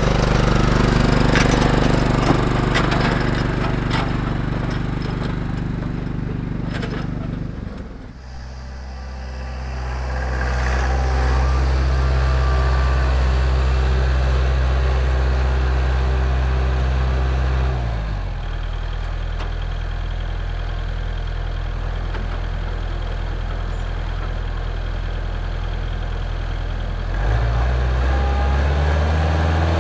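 Kubota L4701 tractor's four-cylinder diesel engine running steadily, with a brief drop and several abrupt shifts in its pitch and level.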